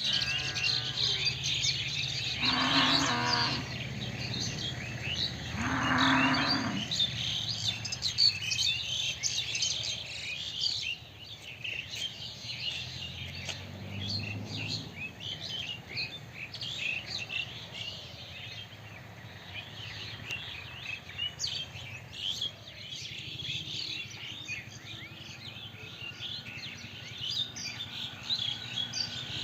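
A cow mooing twice, a few seconds apart, over many birds chirping steadily throughout.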